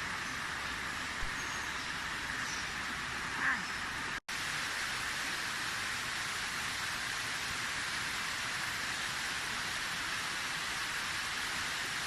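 Steady rushing of flowing water, a forest stream or waterfall, broken off for a moment about four seconds in.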